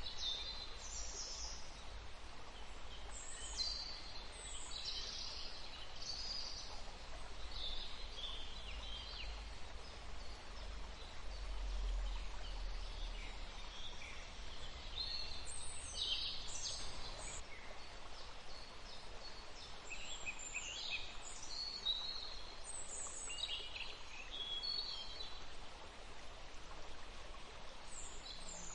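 Forest birds singing and chirping: many short chirps and trills from several birds, scattered throughout, over a steady background hiss. A low rumble sits under the first half.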